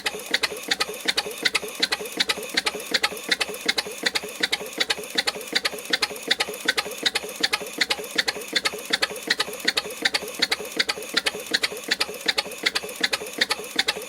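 6 hp Frisco Standard two-cylinder stationary engine running steadily, with sharp, even beats about four a second.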